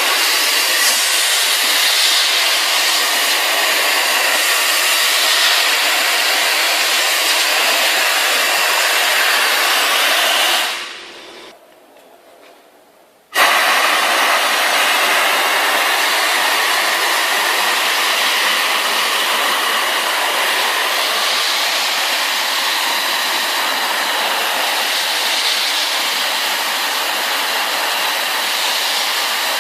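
Compressed-air-powered wet/dry industrial vacuum cleaner running with a loud, steady rushing hiss. It shuts off about eleven seconds in, dying away within a second, then starts again abruptly about two and a half seconds later.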